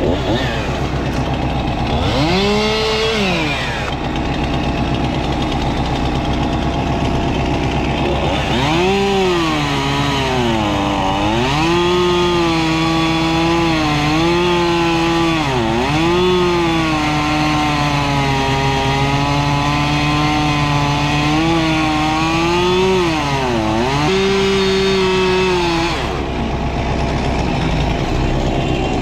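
Norwood HD36 portable band sawmill: the engine revs briefly a few seconds in, then stays throttled up while the band blade cuts through an oak log. The engine note sags in pitch again and again as the cut loads it. Near the end it drops back to a steady idle.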